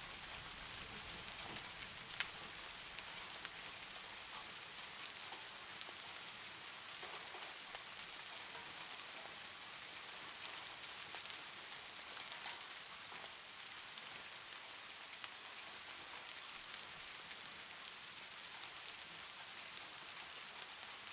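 Steady rainfall: an even hiss of rain with scattered drip taps, one sharper tap about two seconds in.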